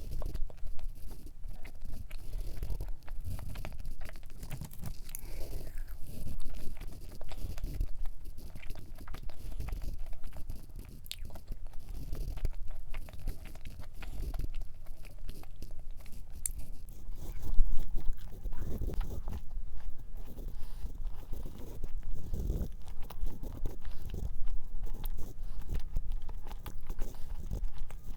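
Close-miked chewing and biting of a dense, fudgy cream cheese cup cookie: irregular soft chews and small mouth clicks.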